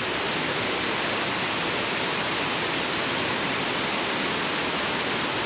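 Steady rush of flowing water from a jungle river cascade, an even hiss with no breaks or changes.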